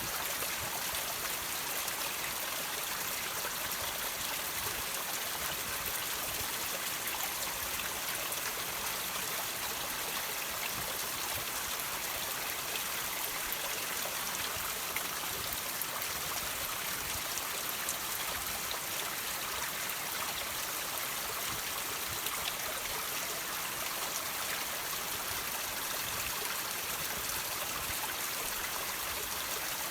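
Water running and trickling over rocks in a steady hiss, with many small drips and splashes scattered through it.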